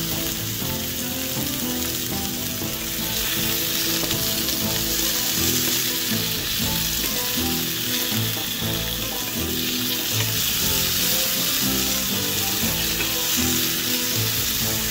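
Tomato wedges, onion, garlic and ginger frying in olive oil in a nonstick pan, sizzling steadily as a wooden spatula stirs them.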